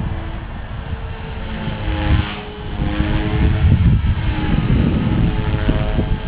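T-Rex 450 Pro electric RC helicopter in flight: its motor and rotor whine shifts up and down in pitch as it manoeuvres, under heavy wind buffeting on the microphone.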